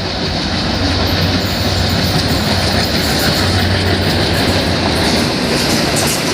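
Train running past close by: a steady, loud rumble of wheels on rails with a clatter from the rail joints, swelling about a second in and then holding.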